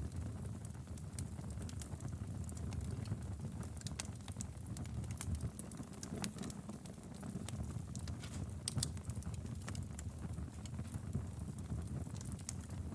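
Wood fire crackling in a fireplace: irregular sharp pops and snaps over a steady low rumble of flames, with a few louder pops near 4 s and just before 9 s.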